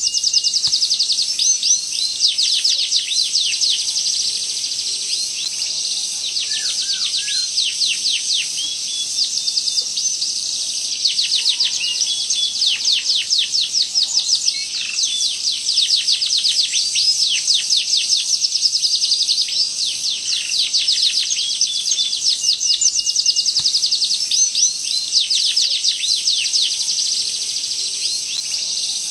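Domestic canary singing in long, sharp rolls: fast trains of high, quick downward-sweeping notes, one roll running into the next with brief changes of phrase.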